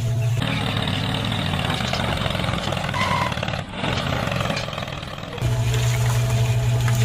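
The small motor of a DIY mini tractor running with a steady low hum. Through most of the middle the sound turns rougher and noisier, and the steady hum comes back about five seconds in.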